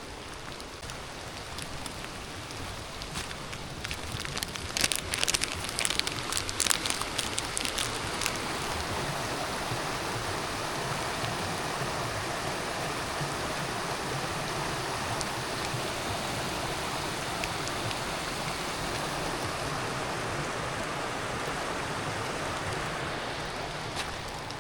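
Steady rain falling, a continuous hiss that swells a few seconds in and then holds steady. Between about 5 and 8 seconds in, a flurry of sharp crackling clicks sits on top of it.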